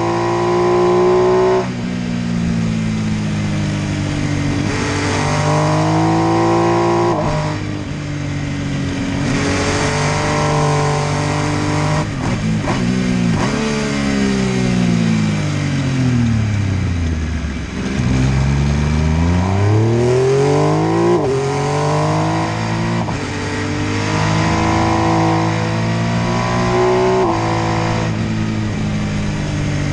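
MV Agusta F3 800's inline three-cylinder engine pulling hard through the gears, its pitch climbing and dropping back at each upshift. Past the middle the revs fall away in a long slowing, then climb steeply again, with wind rush throughout.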